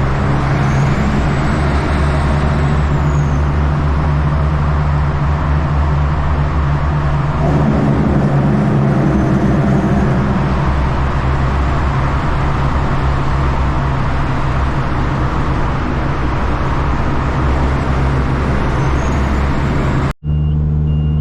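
Caterpillar C-15 inline-six diesel in a Kenworth truck running steadily at a low, even drone, with road noise over it. Near the end the sound cuts out for an instant and comes back as a cleaner engine drone.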